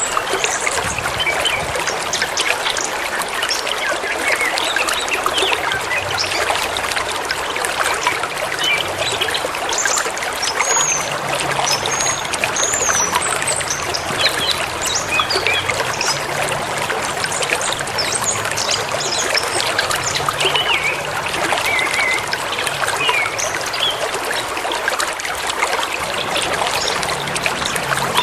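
Forest river or stream splashing and trickling over rocks in a steady rush, with small birds chirping now and then above it.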